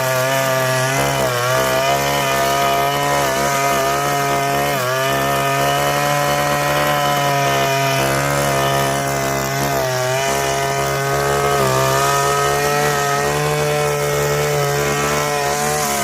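A small engine-driven garden power tool running steadily at high speed, its pitch dipping briefly several times as it takes load.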